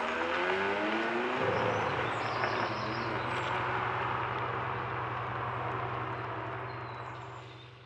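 Sports car engine revving up with a rising pitch, then holding a steady low note as it runs on, fading out near the end.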